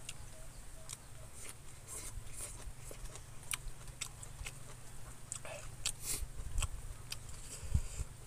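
A person chewing food close to the microphone: scattered wet mouth clicks and smacks, over a steady low hum.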